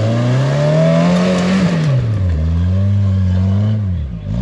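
Off-road truck engine revving hard under throttle. The pitch climbs for about a second and a half and falls away, then holds high again before dropping near the end.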